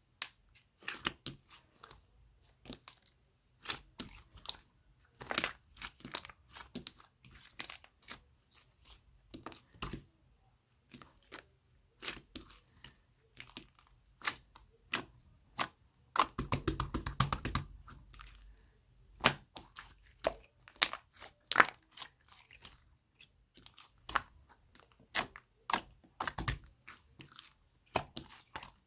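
Firm slime being pressed, poked and squeezed in the hands, giving irregular sharp clicks and pops. About halfway through comes a rapid run of crackling clicks.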